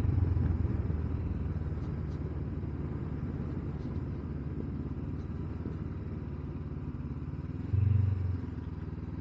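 Honda CB500X parallel-twin motorcycle engine running steadily while riding, with a brief louder swell near the end.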